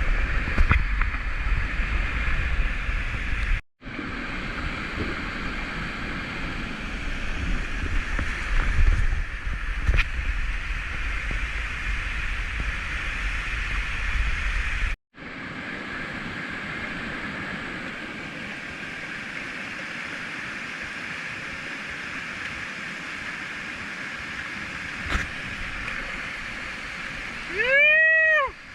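Rushing whitewater of a low, rocky river close to a kayak, a steady hiss with heavier low rumble in the first half, broken twice by sudden cuts. Near the end comes a loud, short pitched call that rises and falls once.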